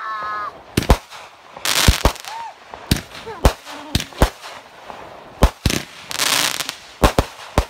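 Aerial fireworks going off: about ten sharp bangs at uneven intervals. Two stretches of crackling hiss from crackling stars come around two seconds in and again a little past six seconds.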